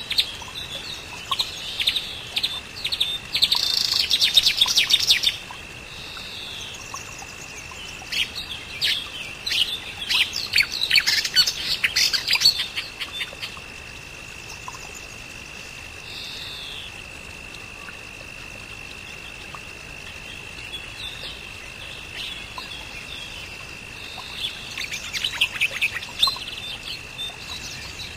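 Birds chirping and singing in three bursts of rapid calls, over a steady high-pitched hum.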